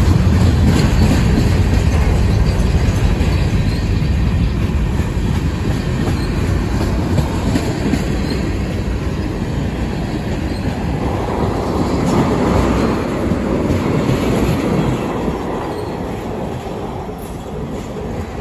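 Manifest freight train's covered hoppers and tank cars rolling past: a steady rumble and clatter of steel wheels on the rails, easing off near the end as the last car goes by.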